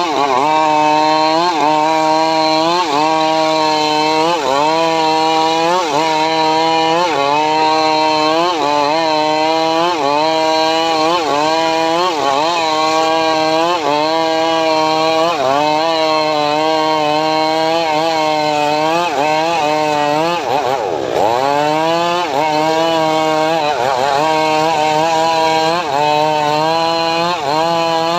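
Homemade sawmill cutting sengon wood, its engine running loudly with the pitch sagging and recovering about once a second under load, and two deeper dips about three quarters of the way through.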